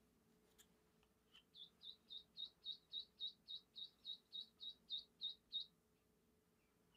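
A bird calling: a rapid, even series of about fifteen short, high chirps, nearly four a second, starting about a second and a half in and stopping near six seconds.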